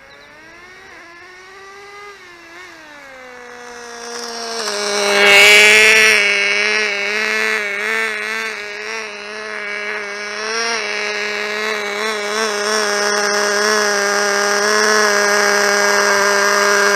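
Small two-stroke glow engine of a 1/16-scale RC car running at high revs: it grows louder over the first five seconds, then holds a steady high-pitched buzz with brief wobbles in pitch.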